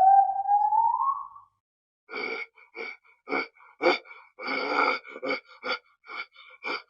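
Farm animal vocalizing: one call rising in pitch, then from about two seconds in a run of short, quick calls in an irregular rhythm.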